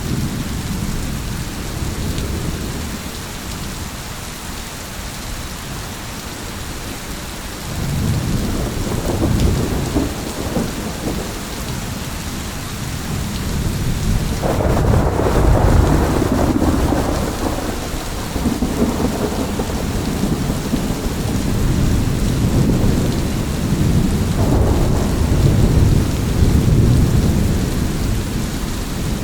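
Steady rain hissing, with thunder rumbling low underneath in long rolls that swell up about a quarter, a half and four-fifths of the way through.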